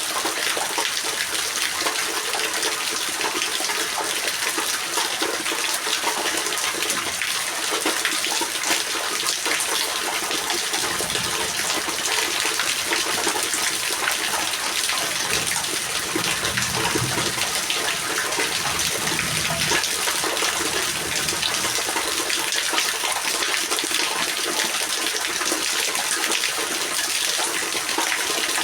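Heavy rain falling steadily: a dense, even hiss of water with close splashing. A faint low rumble comes and goes in the middle.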